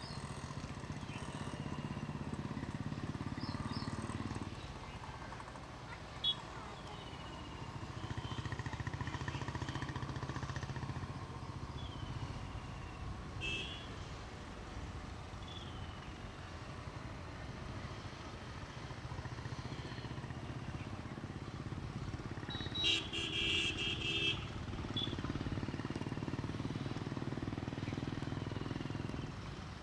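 Road traffic running steadily, with a vehicle horn sounding for about a second and a half around two-thirds of the way in. Short, falling bird chirps come through every couple of seconds above the traffic.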